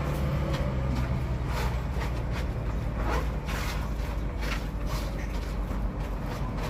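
Steady low rumble of passing road traffic, with many short light clicks and knocks throughout.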